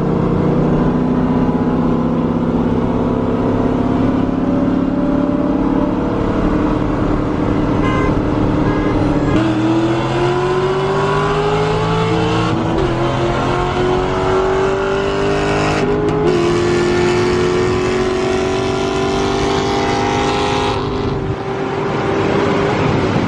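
Car engine pulling hard at high revs. Its pitch holds fairly level at first, then climbs from about nine seconds in, dropping back briefly at three gear changes.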